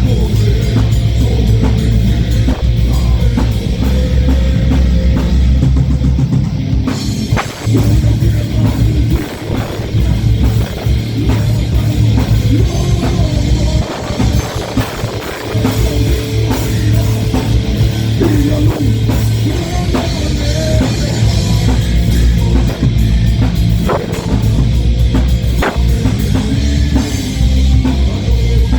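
A live rock band playing loud heavy metal with drum kit, distorted electric guitars and bass.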